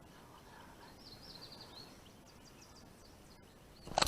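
Quiet outdoor background with a faint bird chirping, a quick run of short high notes about a second in. A sudden louder rush of noise starts right at the end.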